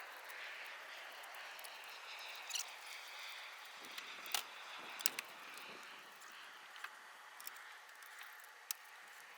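Faint clicks and light knocks from a truck-mounted 270-degree awning being swung open and set up, over a steady faint outdoor hiss.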